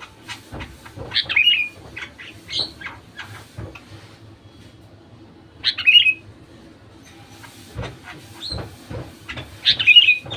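Sooty-headed bulbul calling in short, bubbly phrases. The loudest bursts come about a second in, around the middle and near the end, with softer notes between. Faint knocks and a low steady hum lie underneath.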